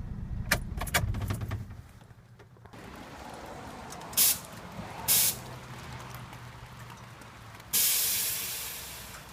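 A four-cylinder pickup engine running low, with a few clicks, then dropping away about two seconds in; later two short bursts of air hiss and a longer hiss that fades, typical of a truck's air-bag suspension releasing air.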